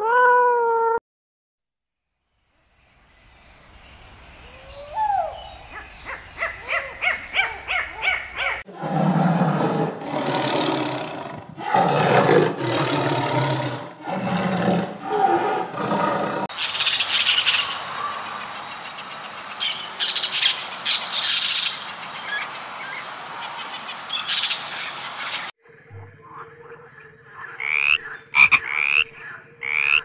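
A domestic cat's meow ends in the first second. After a short silence, a tiger growls and roars in a run of loud, rough calls, followed by harsher hissing bursts. About 26 s in, a frog begins calling with short rising chirps.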